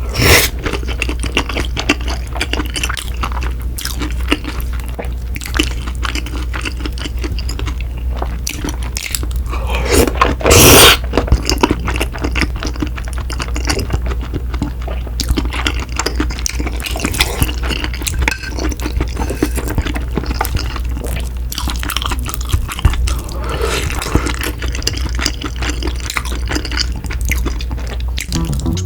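Close-miked eating sounds of cream tteokbokki and fried snacks: wet, sticky chewing with many small clicks, and a louder burst about ten seconds in.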